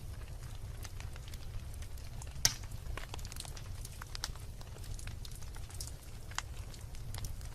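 Wood logs burning in a fireplace, crackling with short irregular pops, one much louder pop about two and a half seconds in, over a low steady rumble.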